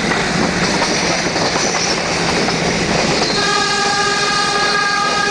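Nilgiri Mountain Railway toy train running, a steady rumble of wheels and carriage heard from on board. About three seconds in, the train's horn starts one long, steady blast that lasts to the end.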